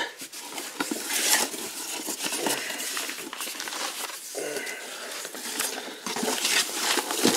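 Packing paper and shredded paper fill rustling and crackling as they are pulled by hand out of a cardboard box.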